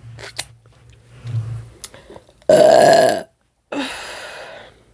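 A person burps loudly once, about two and a half seconds in, followed after a short gap by a softer breathy exhale; a few small mouth clicks come before it.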